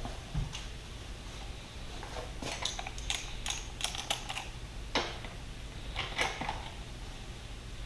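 Scattered light clicks and metallic taps of hand tools working on a dirt bike's exhaust fastenings, over a steady low hum.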